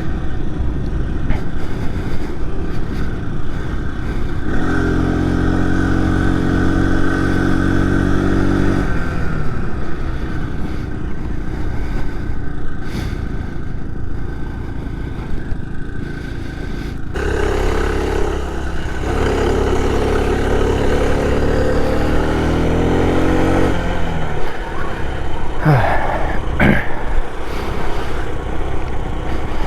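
Small 49cc four-stroke engine of a motorized bicycle running while riding, over a steady rush of wind and road noise. Its note comes up clearly twice, about five seconds in for a few seconds and again from about seventeen seconds for some seven seconds, then falls away.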